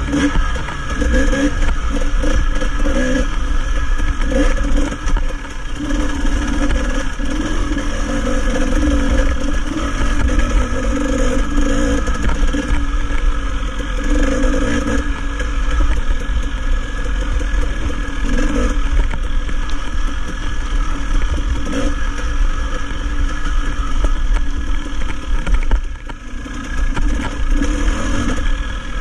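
Dirt bike engine running at varying throttle as it rides a rough trail, with heavy wind noise on the microphone. The engine eases off briefly about five seconds in and again near the end.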